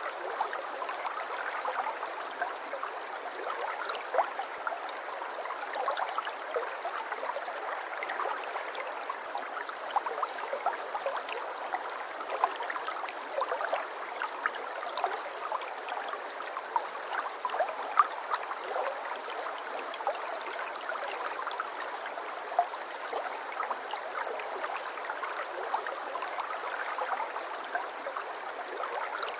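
A shallow brook babbling steadily, with a dense patter of small splashes and gurgles over a continuous rush of water.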